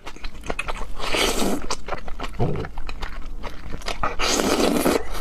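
Close-miked eating of raw seafood: wet mouth clicks and smacks throughout, with two longer rushing noises, one about a second in and one near the end.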